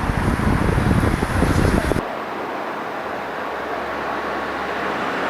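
Outdoor street ambience of passing traffic with wind rumbling on the microphone, cutting abruptly about two seconds in to a quieter, steady background hiss.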